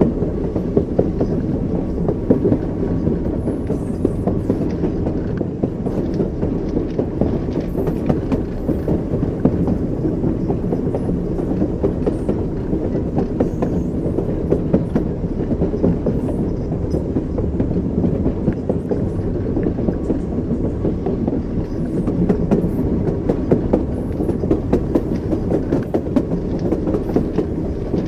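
Train wheels running on rails: a steady low rumble with the clickety-clack of wheels passing over rail joints.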